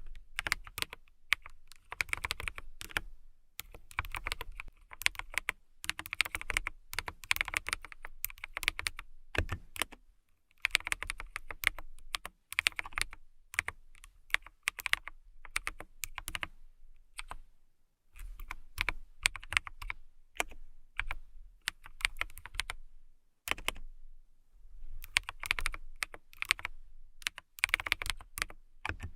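Fingernails tapping in quick runs of sharp clicks, in bursts of a second or two with short pauses between.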